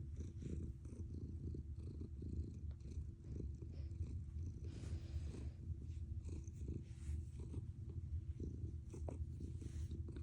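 Domestic cat purring steadily, a deep, continuous rumble that sounds like an engine.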